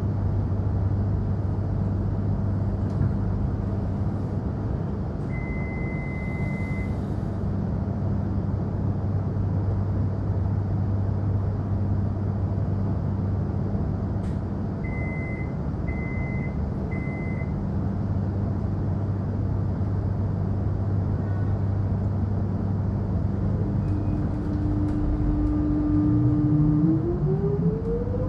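Suburban electric train running at speed: a steady rumble with a constant low hum. A short high beep sounds about six seconds in, and three quick beeps come around the middle. Near the end a motor whine climbs in pitch as the train accelerates.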